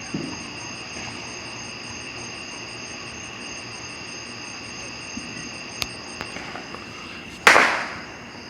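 Insects trilling steadily in high, even tones, then a single loud firework bang about seven and a half seconds in that dies away over about a second.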